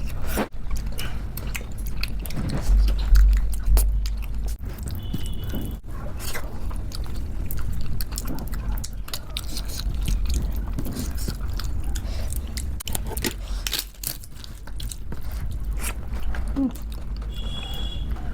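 Close-miked chewing and wet mouth sounds of someone eating khichdi, with many small, sharp clicks scattered throughout.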